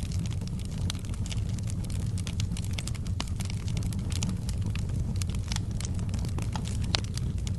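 Wood fire burning in a fireplace: a steady low rumble of the flames with frequent irregular crackles and pops, one sharper pop near the end.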